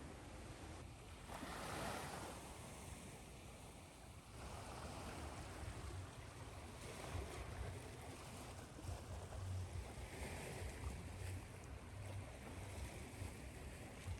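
Recorded ocean surf: waves washing ashore as a steady hiss that swells and falls back, over a low rumble.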